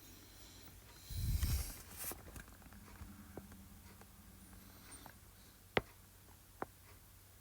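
Quiet room tone with a steady low electrical hum. A soft low bump or rustle comes about a second in, then faint ticks, and two short sharp clicks near the end, from drawing on a computer with a pen or mouse.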